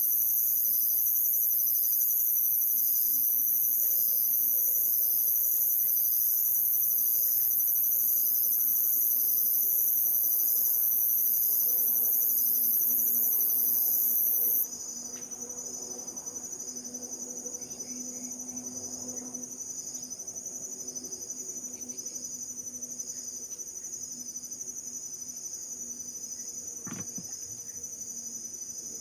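Chorus of insects shrilling steadily at a high pitch, one layer pulsing in a regular beat. The highest and loudest insect voice cuts off abruptly about halfway through, leaving the rest going.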